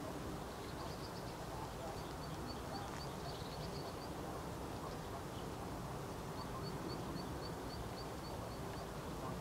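A small bird singing: runs of short, high, repeated chirps, about four a second, broken by pauses, over a steady low background rumble.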